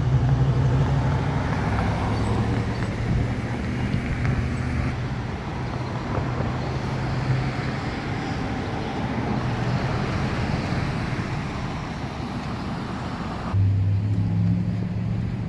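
Road traffic: car engine hum and tyre and road noise. Near the end the hiss drops away and a lower engine hum gets louder.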